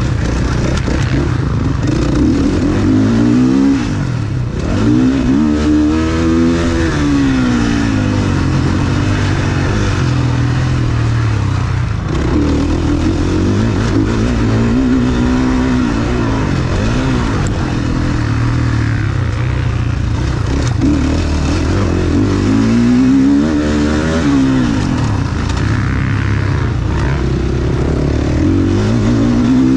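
Motocross dirt bike engine revving hard and easing off over and over as it races around the track, its pitch rising and falling with each burst of throttle and gear change.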